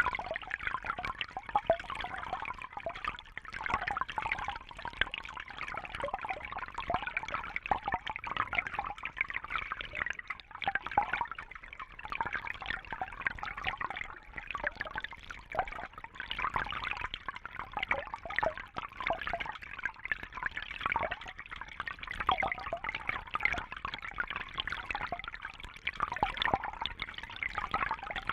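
Fish tank water trickling and splashing steadily, a continuous busy patter of small splashes and bubbles.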